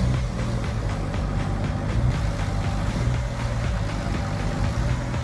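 An engine running steadily with a low, even hum, typical of heavy machinery idling.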